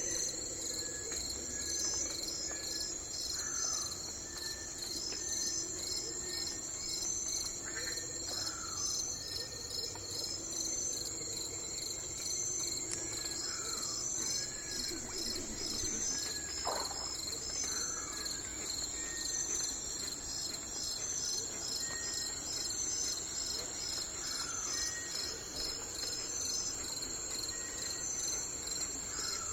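Steady high-pitched insect chorus with a fast pulsing trill, and scattered short bird calls and whistles every few seconds.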